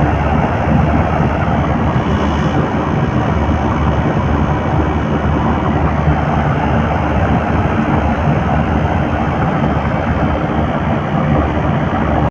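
A compressor running steadily with a dense, unbroken mechanical noise, which the owner calls a bad compressor.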